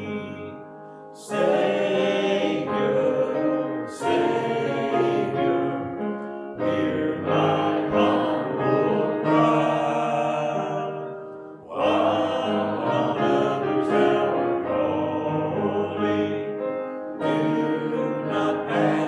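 Church congregation singing a hymn together, in long held phrases with short breaks between lines.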